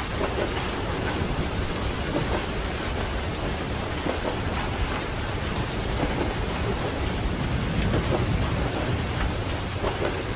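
Steady rain with a low rumble of a moving train carriage underneath; the rumble swells about eight seconds in.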